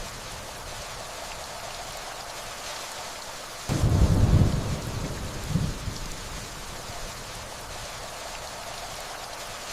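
Steady rainfall with a rumble of distant thunder that comes in suddenly about four seconds in, swells again briefly, and dies away within a couple of seconds.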